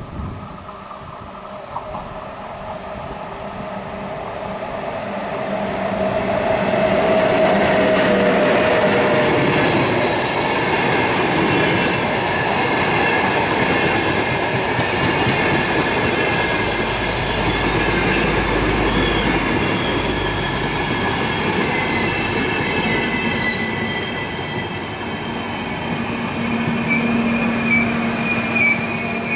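VR Sr2 electric locomotive hauling an InterCity train of double-deck coaches approaches and rolls past, growing louder over the first eight seconds or so. As the coaches go by, thin high squealing tones from the wheels join the noise of the wheels on the rails.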